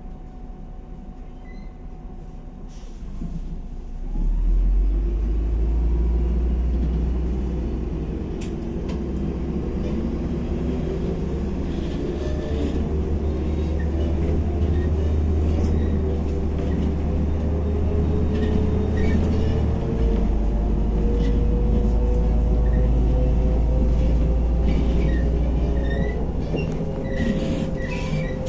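MAZ-105 city bus heard from inside the cabin: quieter for the first few seconds, then the engine's low drone rises sharply about four seconds in as the bus pulls ahead. A whine climbs slowly in pitch as it gathers speed, and the drone changes once about two-thirds of the way through, with a few rattles and clicks near the end.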